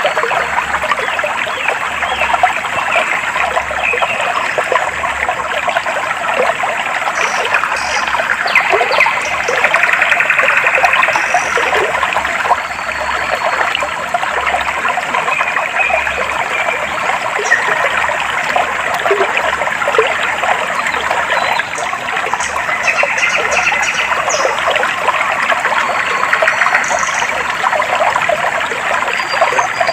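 Clear stream water trickling and splashing steadily over stones, with a few faint high bird chirps here and there.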